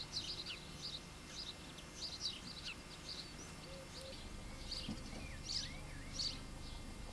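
Faint birdsong: many short, high chirps, with a few sliding whistled notes near the middle.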